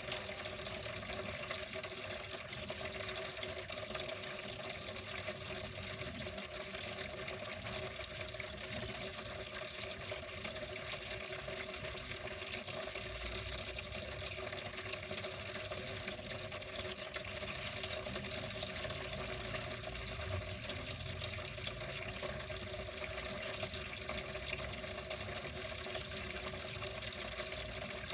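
Water flowing steadily without a break, an even rushing splash.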